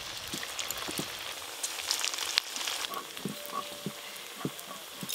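Cabbage mock-fish rings deep-frying in hot mustard oil in a kadai: a steady sizzle with scattered crackling pops.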